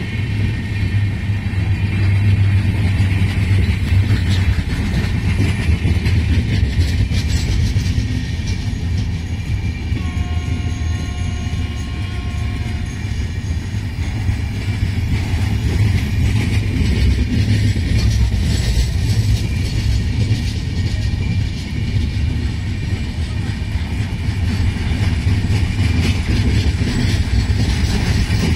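Indian Railways express train coaches rolling past close by: a steady loud rumble of wheels on rails.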